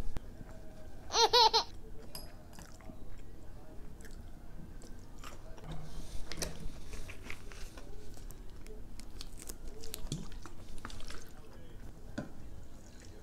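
A woman chewing a mouthful of chive pancake, with a brief high-pitched voice sound about a second in. Small clicks and rustles follow as the plastic makgeolli bottle is handled and its cap opened.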